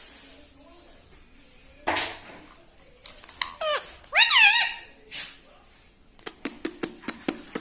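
Ringneck parrot calling: a sharp squawk about two seconds in, then a run of squeaky, looping chirps that swoop up and down in pitch. A quick series of clicks follows near the end.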